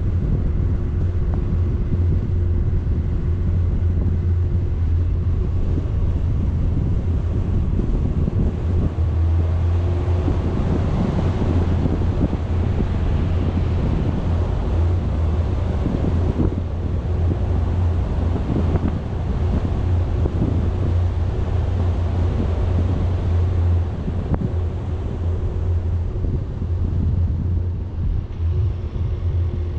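A vehicle driving steadily: a constant low engine and road drone, with wind buffeting the microphone.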